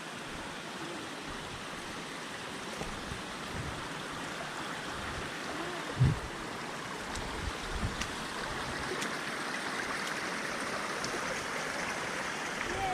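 Mountain stream running, a steady rush of water that grows a little louder toward the end, with a single thump about halfway through.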